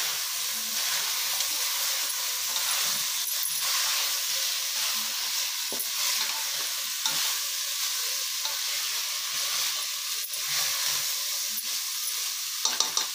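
Mixed vegetables and masala sizzling in oil in an open aluminium pressure cooker, stirred with a spatula, with a few faint scrapes against the pot.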